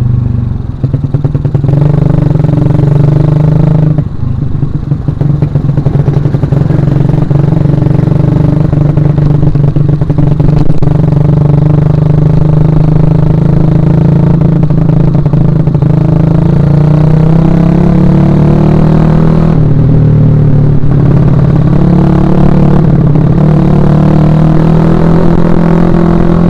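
Suzuki Shogun Axelo R's single-cylinder four-stroke engine running under way. The note eases off briefly about a second in and again around four seconds, rises slowly through the middle, then drops and picks up again twice near the end, as with throttle changes between gears.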